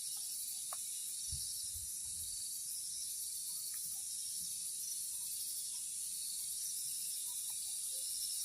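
Steady high-pitched chirring of insects in the garden, with a few faint low thumps early on from handling or footsteps.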